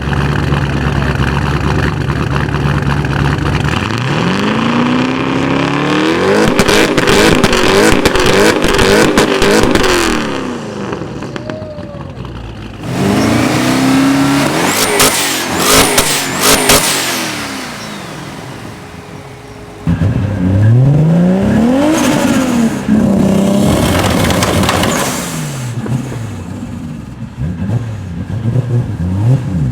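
Tuned high-horsepower car engines revving hard and accelerating, the pitch sweeping up and falling back several times, with bursts of sharp exhaust cracks and pops. The sound changes abruptly twice, as if switching between different cars.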